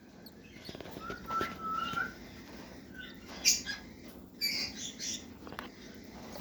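Cockatiel chicks calling as they beg during a feeding: a held note about a second in, then short, harsh bursts of calls around the middle.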